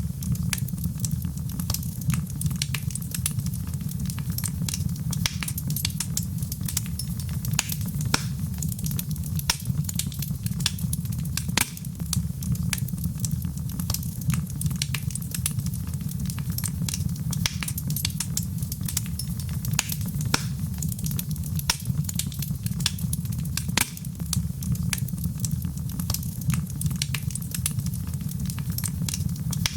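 Fireplace fire crackling: frequent sharp, irregular pops and snaps over a steady low rumble.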